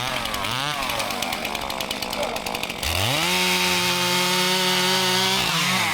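Two-stroke chainsaw engine revved up and down unevenly, then held at full throttle at a steady high pitch for a couple of seconds before dropping back near the end.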